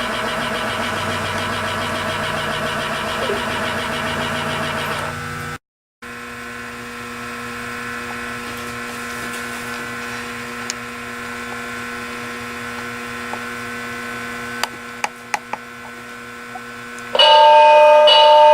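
Electric motors of operating model-train layout accessories humming steadily, then, after a short break, a second quieter motor hum with a few sharp clicks. Near the end, louder music starts.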